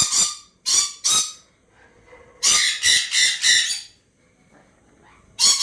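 African grey parrot squawking in short, harsh calls: two pairs in the first second and a half, a quick run of five about two and a half seconds in, and one more near the end.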